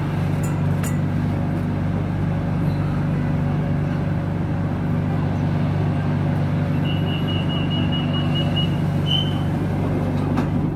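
Steady running hum and rumble of a BTS Silom Line skytrain car. Near the end come a quick run of about eight short high beeps, then one slightly longer beep.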